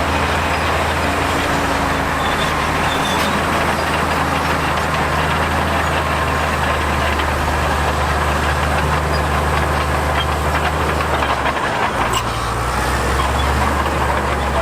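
Heavy diesel engine of earthmoving machinery running steadily under work. Its low engine note dips briefly near the end, then carries on at a different pitch.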